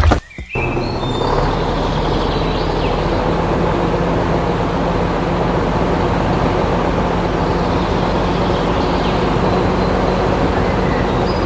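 A motor vehicle running steadily: an even engine hum with rumbling noise, starting just after a brief drop near the start.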